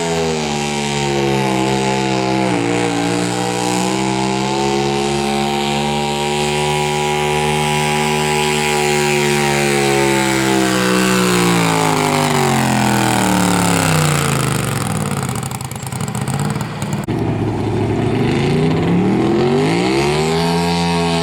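Pulling garden tractor's engine running hard: the pitch holds steady for several seconds, falls away to a low note a little past halfway, then climbs back up near the end.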